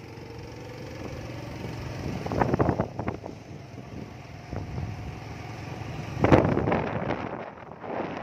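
A motor vehicle's engine running steadily, with a faint rise in pitch near the start, while strong wind buffets the microphone in loud gusts about two and a half and six seconds in.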